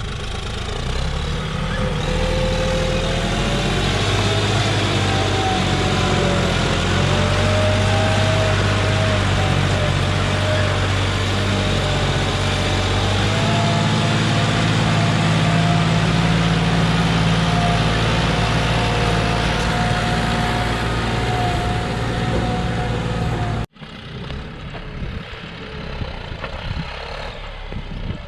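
John Deere 5065E tractor's diesel engine running hard, with a steady low drone and a whine that slowly rises in pitch over the first several seconds and then holds. Near the end the sound cuts off abruptly, leaving a quieter, rougher engine sound.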